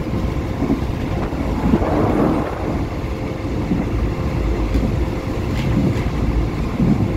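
A passenger train carriage running along the track, heard at an open window: a steady rumble and rattle with irregular wheel knocks over the rails and a faint steady hum underneath.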